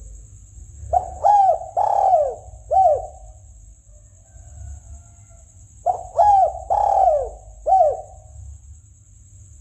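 Spotted dove (tekukur) cooing, played as a hunting lure call: two phrases of four falling coos each, about five seconds apart. A steady high hiss runs underneath.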